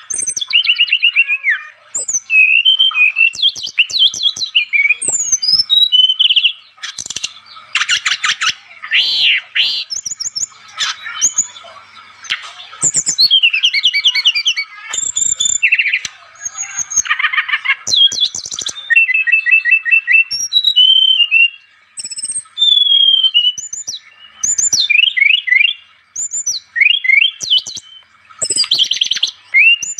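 Brown-chested jungle flycatcher (sikatan rimba dada coklat) singing energetically: a varied run of quick whistled phrases and rapid trills, broken by short pauses.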